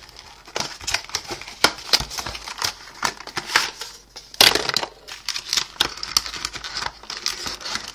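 Model-plane packaging being handled: irregular crinkling, crackling and small knocks of plastic and cardboard as pieces are moved and the box is opened, with a louder crackle about four and a half seconds in.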